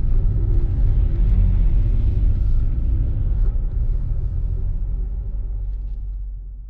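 Ford Fiesta ST150's 2.0-litre four-cylinder engine heard from inside the cabin, running at low revs as the car rolls slowly, fading away near the end.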